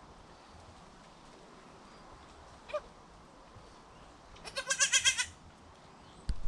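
A goat bleating: a short high call about three seconds in, then a longer quavering bleat near the end. A single sharp thump follows just after it.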